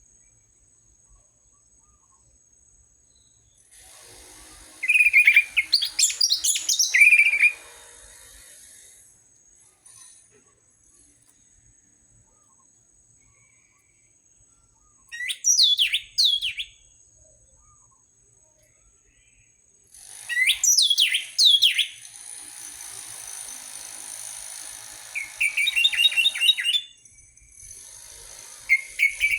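Orange-headed thrush singing in about five short, separate phrases of quick gliding and trilled whistles, with pauses of several seconds between them.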